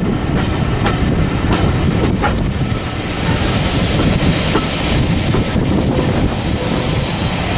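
Railway carriages running on a curve into a station, steady rumble with wheels clicking over rail joints, and a brief high flange squeal about four seconds in.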